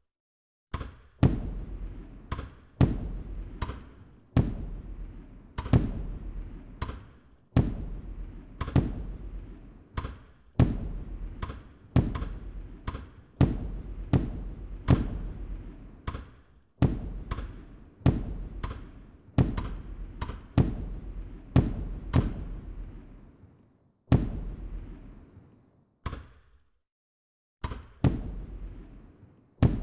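Firework bursts going off in quick succession, one or two sharp bangs a second, each followed by a fading tail. The bangs pause briefly twice near the end.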